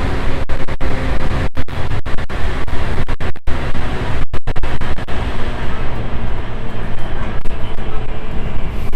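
E235 series electric train running, with a steady wheel-and-rail rumble and hiss heard inside the car. The sound cuts out briefly several times in the first half, and the hiss thins out about five and a half seconds in.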